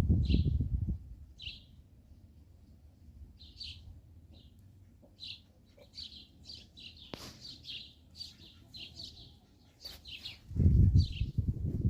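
Small birds chirping in short high calls, many in quick succession through the middle. A loud low rumbling noise comes in the first second and again near the end.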